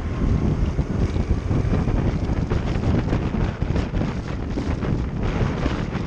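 Wind rushing and buffeting over the microphone of a moving motorcycle, a heavy, fluttering rumble that covers the bike's own sound.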